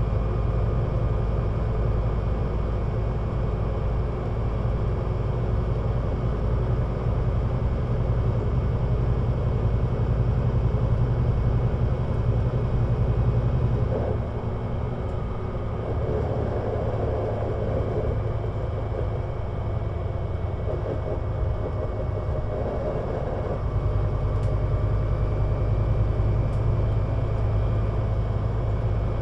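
Scania Citywide LFA three-axle city bus running as it drives, with a steady low engine and drivetrain rumble. The sound drops back slightly about halfway through, then swells again in patches.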